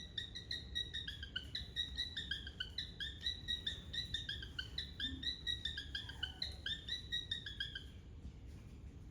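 A bird singing a long run of quick, short downward-slurred notes, about four or five a second, that stops about eight seconds in.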